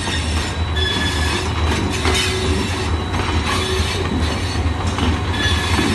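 Passenger train coaches rolling slowly through the station on arrival: steel wheels squealing in short high tones and knocking over rail joints now and then, over a steady low rumble.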